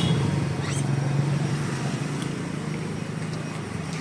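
A motor vehicle's engine running with a steady low hum amid street noise, easing off slightly toward the end.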